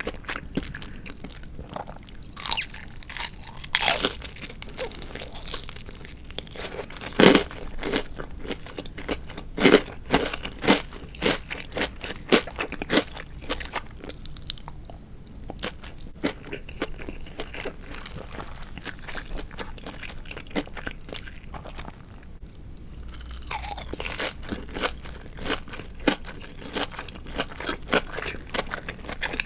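Close-miked crunching and chewing of crispy deep-fried marinated chicken (tatsuta-age), with loud sharp crunches at irregular moments between quieter wet chewing.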